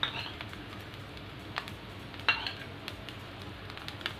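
Metal spoon knocking and clinking against a kadhai as sauce is spooned into fried rice: about five sharp clinks, the loudest a little past two seconds in, over a steady low hiss.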